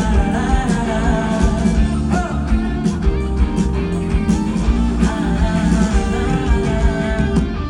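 Live pop-rock band music played through the festival PA: electric guitar and drums keeping a steady beat, with a gliding melodic line over it, in a passage between the sung lines.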